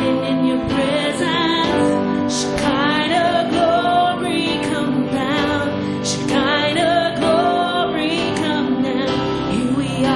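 Slow worship song: a lead voice singing with vibrato over sustained instrumental accompaniment.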